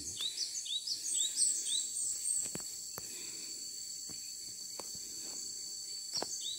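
A rapid series of short high chirps in the call pattern of the cinereous tit (gelatik batu), about four a second for the first two and a half seconds, starting again near the end. Under it runs a steady high insect drone.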